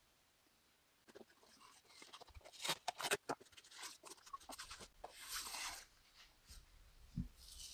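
Small objects being handled: irregular clicks, knocks and scraping rustles, with a short hiss about five seconds in.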